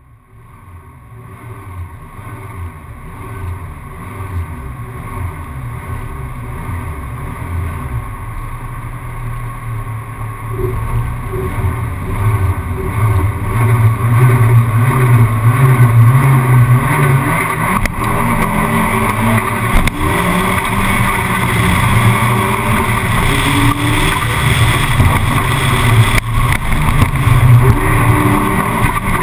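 Fiat Uno slalom car's engine running, picked up by a camera mounted on the car's outside; it fades in at the start and grows louder from about halfway through as the car gets going, and the car is under way on the course by the end.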